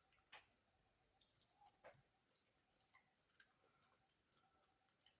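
Near silence with faint, scattered clicks and small mouth sounds of someone eating, a handful of short ticks spread across the few seconds.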